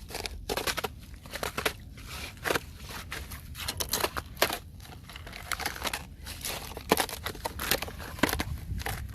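Thin fresh ice cracking and crunching: a rapid, irregular run of sharp cracks and crackles.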